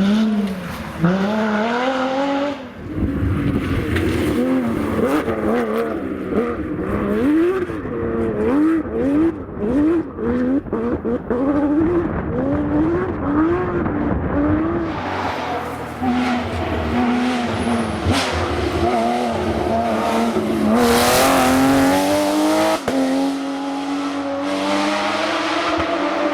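Porsche rally car's flat-six engine at full throttle on a stage, revving up and dropping back again and again as the driver shifts and lifts between corners, in several successive clips.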